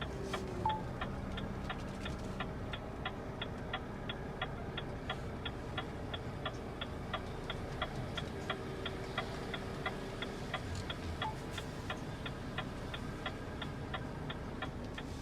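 Truck indicator or hazard-light relay ticking steadily, about three to four clicks a second, over the low rumble of the idling truck engine.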